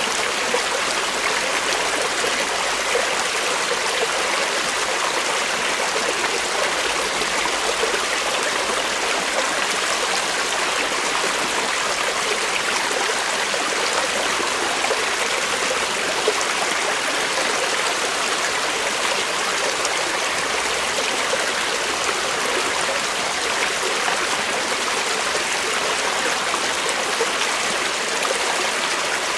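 Creek water flowing and babbling over rocks, a steady rushing trickle.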